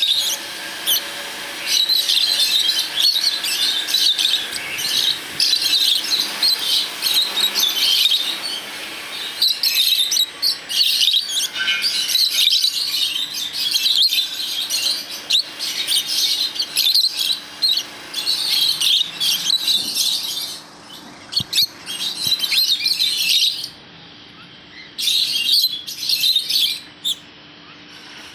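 Small pet parrots (love birds) chattering and chirping in rapid, high-pitched bursts, dense for most of the time and broken by short quiet gaps near the end. A faint steady hum lies underneath.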